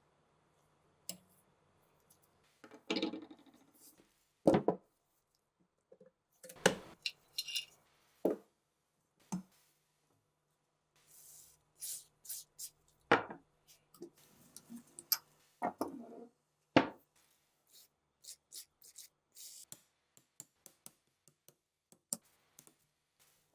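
Irregular sharp knocks and clicks of metal gun parts being handled, set down and fitted, with scraping and rustling between, during an MG3 machine gun rebuild. The louder knocks come about a quarter, a third, halfway and two-thirds of the way through.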